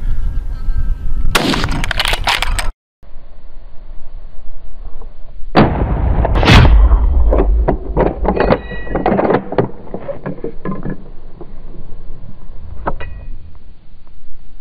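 Rifle shots at wild boar across two spliced hunting clips. Loud cracks come in the first three seconds, then the sound drops out briefly. After the drop-out, a heavy shot comes about six seconds in, followed by a scatter of sharper cracks and clatter, with a last pair of cracks near the end.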